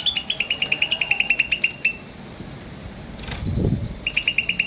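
A bird chirping in fast runs of short, high, evenly spaced notes, about ten a second, slowly falling in pitch. A run of about two seconds is followed by a gap with a sharp click and a brief low sound, then a second run starts near the end.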